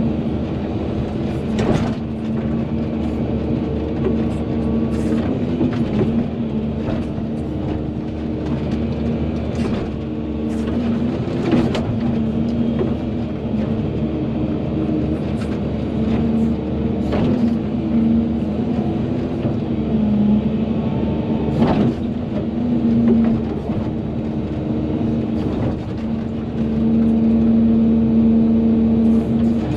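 Volvo EC220DL excavator's diesel engine running steadily under working load, with a number of sharp knocks spread through it, growing louder near the end.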